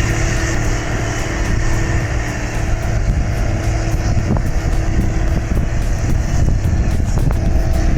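John Deere 8360R tractor's diesel engine running steadily under heavy load while the tractor is stuck in mud, with a couple of faint knocks.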